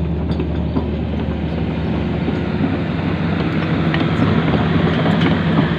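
A steady, loud engine drone with rushing noise over it, like a small vehicle on the move.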